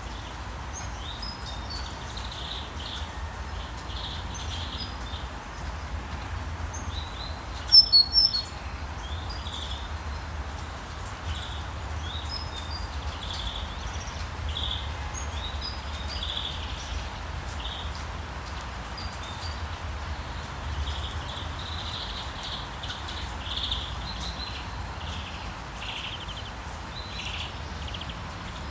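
Rainforest ambience: many small bird calls chirping over a steady hiss of rain. About eight seconds in comes a loud, quick burst of sharp, high chirps.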